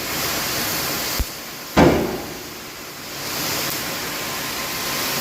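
Steady hiss with a small click about a second in. A loud metallic knock with a short ringing decay follows a moment later.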